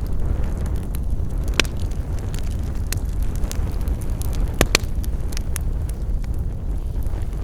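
Wood campfire burning with a steady deep rumble and scattered sharp crackles and pops, a few of them louder, the loudest just past halfway.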